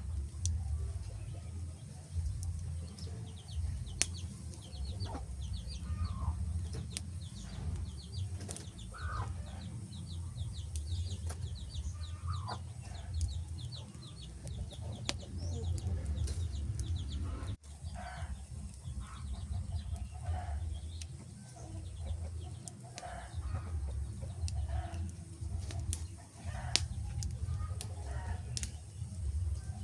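Wood fire crackling with sharp, scattered pops over a steady low rumble, while chickens cluck and a small bird chirps in quick runs.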